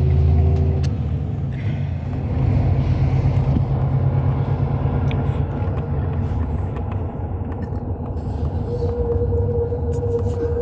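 Hyundai Universe Space Luxury coach under way, heard from inside: a steady low rumble of the diesel engine and road noise. A steady hum comes in about nine seconds in and holds.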